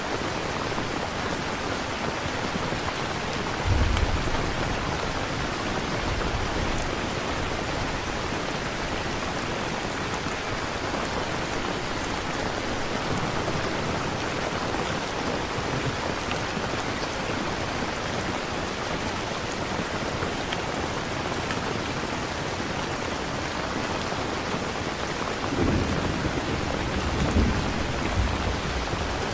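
Steady rain falling, with low rumbles of thunder about four seconds in and again near the end.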